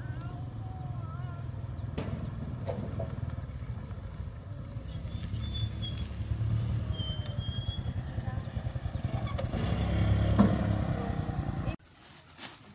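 A motor vehicle engine running steadily with a low rumble, with a few brief high chirps or squeals in the middle. It cuts off abruptly near the end.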